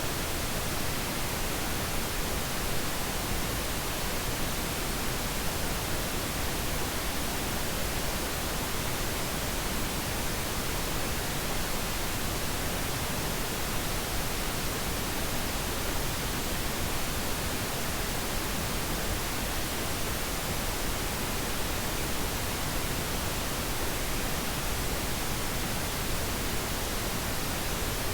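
Steady pink noise: an even, unbroken hiss with no change in level.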